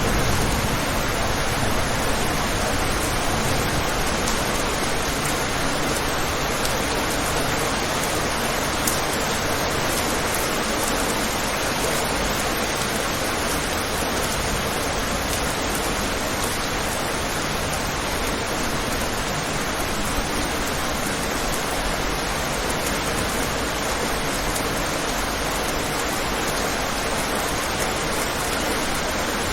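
Steady rain, an even hiss with no breaks, with the last of a low thunder rumble dying away in the first second.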